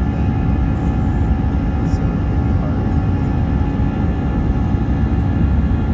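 Airbus A319-100 jet engines running: a steady deep rumble with several steady tones held over it.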